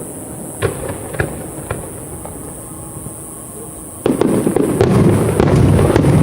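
Aerial fireworks bursting: three separate sharp bangs in the first two seconds, then about four seconds in a sudden, much louder rapid volley of shells exploding and rumbling together.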